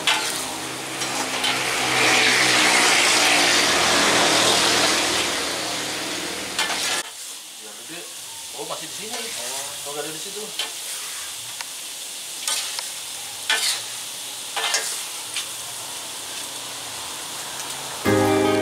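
Grasshoppers sizzling as they fry in hot oil in a steel wok, stirred with a metal spatula. About seven seconds in, the sizzle cuts off abruptly, leaving a quieter stretch with a few sharp clinks of metal utensils.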